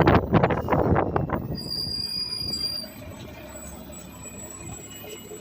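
Garbage truck noise: a noisy rumble with clatter, then a steady high-pitched squeal lasting about a second, after which the truck noise drops off.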